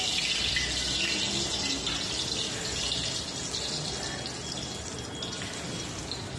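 Marinated chicken pieces sizzling in hot oil in a wok as more pieces are dropped in: a steady hiss that slowly fades.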